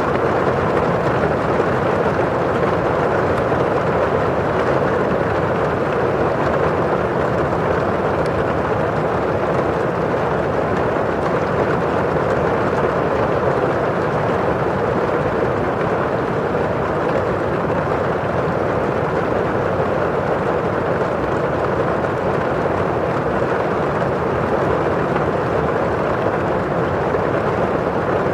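Steady rain falling on a window pane and outside, a constant even rush of noise with no single drops standing out.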